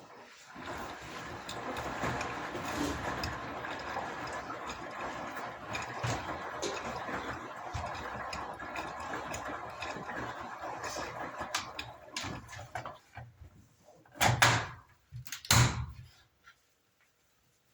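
Beko washing machine running with a steady rush of water for about twelve seconds that then fades. It is followed by two loud short whooshes a little over a second apart near the end.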